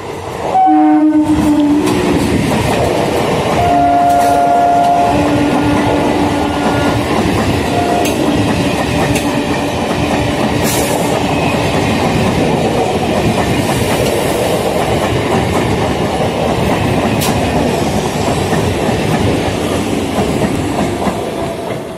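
Electric multiple-unit local train passing close at speed, sounding its horn twice: a short blast about a second in and a longer one around four seconds. Then comes the steady running noise of its wheels on the rails as the coaches go by, fading just before the end.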